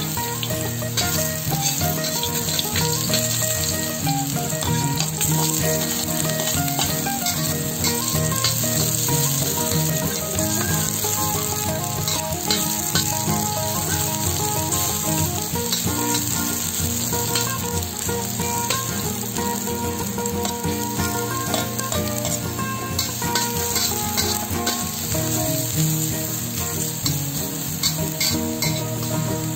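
Garlic, onion and ginger sizzling and crackling steadily in hot oil in a stainless steel wok, stirred now and then with a spatula.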